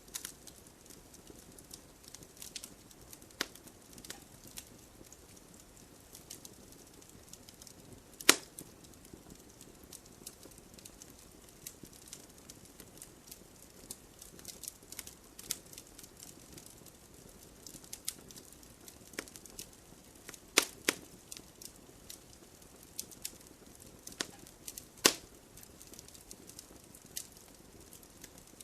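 Wood fire crackling: scattered sharp pops and snaps over a faint steady hiss, with three louder pops about 8, 20 and 25 seconds in.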